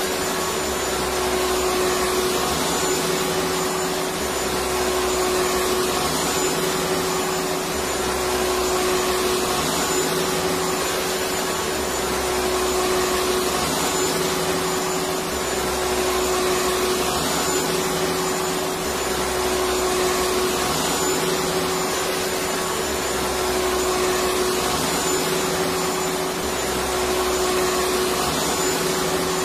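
Electric vacuum cleaner running continuously: a steady whooshing drone with a constant hum, and a low throb that swells and fades every few seconds.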